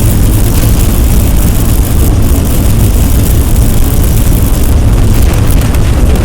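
Loud, continuous rumbling noise with a heavy low drone and a dense hiss above it, steady throughout with no distinct events.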